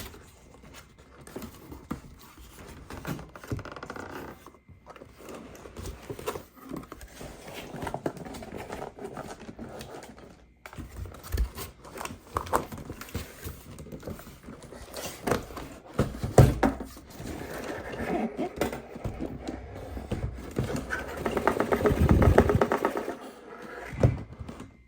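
Hands handling a plastic toy playset and its packaging: irregular clicks, scrapes and knocks, with a louder stretch of rapid crackling near the end.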